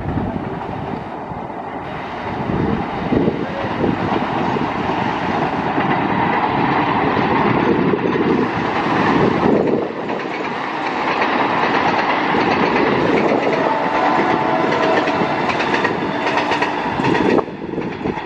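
Passenger trains running along the line: a continuous rumble and clatter of wheels on the track, getting louder about eight seconds in and dropping off shortly before the end.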